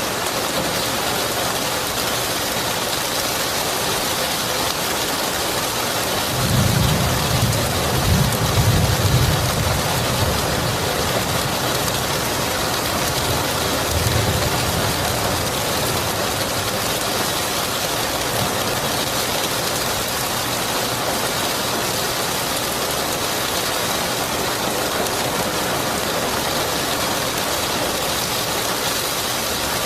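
Steady heavy rain. About six seconds in, a low rumble of thunder rolls for several seconds, and a shorter rumble follows a few seconds later.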